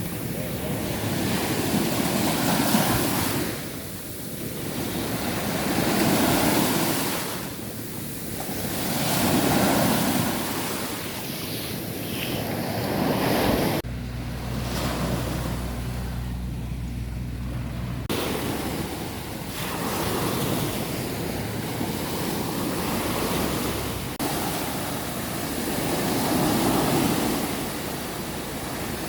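Sea waves breaking and washing ashore, the surf swelling and falling away every few seconds. About halfway through, a low rumble takes over for a few seconds.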